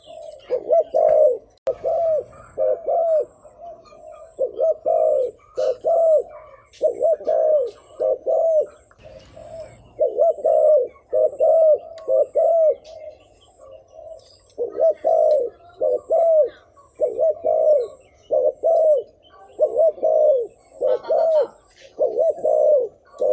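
Spotted dove cooing: short, arched coo notes repeated in quick runs with brief pauses, the rapid 'thúc gù' cooing used as a lure call to draw in wild doves.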